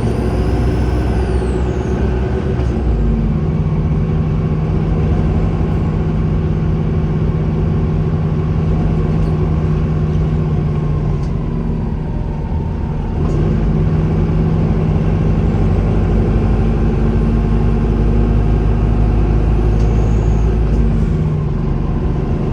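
Volvo B5LH hybrid bus's diesel engine running steadily, with a high turbo whistle that rises and falls near the start and again near the end.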